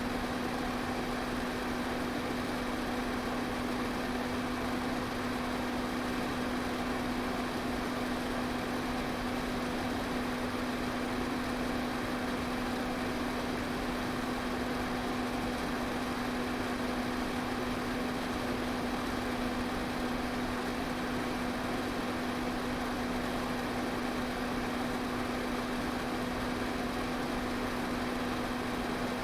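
Electric fan running steadily: an even whoosh of moving air over a constant motor hum.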